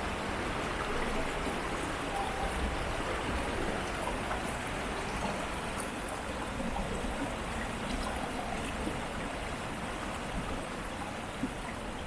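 Urban stream flowing over shallow riffles: a steady rush of water with small splashes and trickles.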